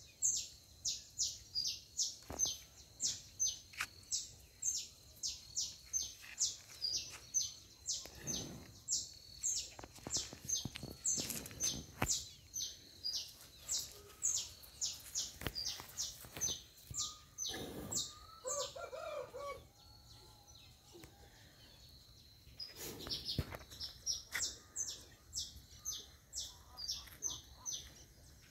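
A bird chirping over and over, short high chirps falling in pitch at about two a second, with a pause of a few seconds past the middle. A faint steady high tone runs underneath.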